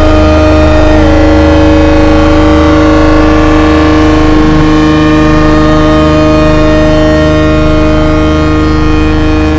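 Nova Drone analog synthesizer holding a loud, sustained drone of several steady tones with a low pulsing beneath. The upper pitches shift slightly about a second in and again about halfway through.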